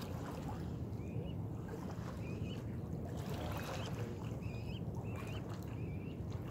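Steady low rumble with a small bird chirping over it, short rising chirps every half second to a second.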